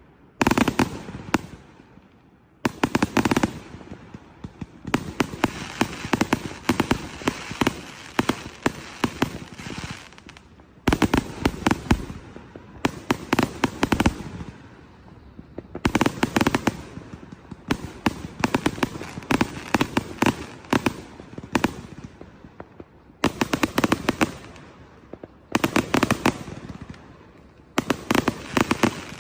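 Consumer fireworks going off in a series of salvos. About every two to three seconds a loud burst sets off a dense run of sharp crackling that fades out over a second or two.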